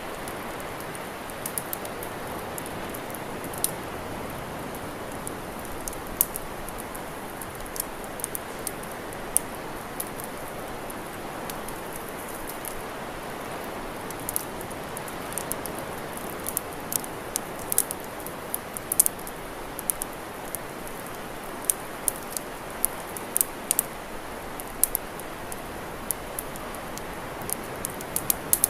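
Wood campfire crackling, with many sharp irregular pops and snaps that come more thickly in the second half, over a steady rushing noise.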